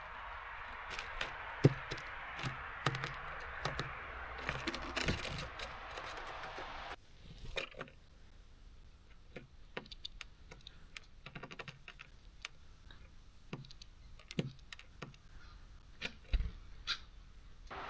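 Small birds pecking and hopping on a seed feeder: irregular sharp clicks and taps of beaks and feet on the feeder, over a steady rain hiss that cuts off suddenly about seven seconds in.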